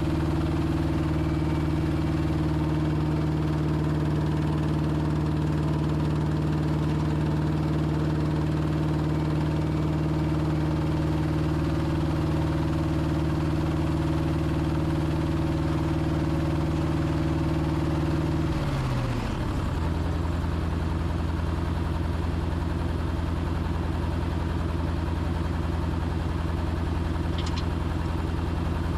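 Self-propelled forage harvester (silage chopper) running steadily. About two-thirds of the way through, its pitch drops quickly and settles into a lower, steady hum.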